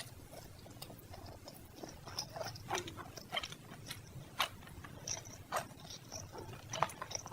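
Close-miked eating sounds: irregular wet chewing and lip-smacking clicks, coming thicker from about two seconds in.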